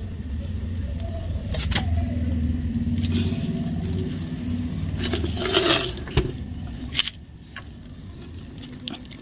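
Metal parts clinking and scraping as wheel-bearing components are handled, over a steady low mechanical hum that drops away about seven seconds in.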